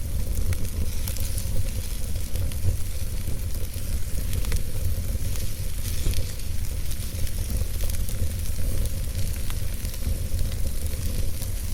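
Campfire burning: a steady sizzling hiss with scattered small crackles and pops, over a low steady rumble.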